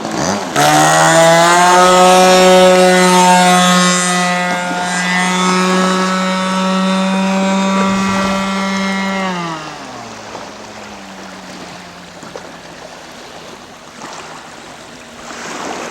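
Radio-controlled scale Maule M-7 floatplane's engine opening up to full throttle for takeoff, its pitch climbing slightly then holding steady, then throttled back about nine or ten seconds in, the pitch dropping as it runs on more quietly.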